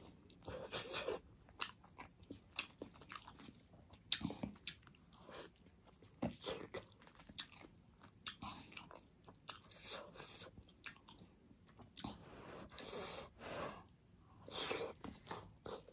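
Close-up mouth sounds of a person chewing juicy steamed pork momo: irregular wet clicks and soft smacks as the dumplings are bitten and chewed.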